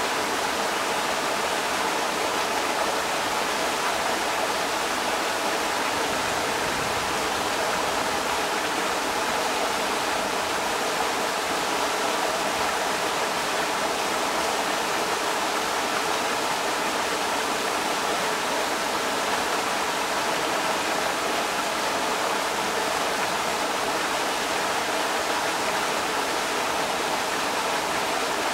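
Creek water rushing steadily over rocks, an even, unbroken wash of sound.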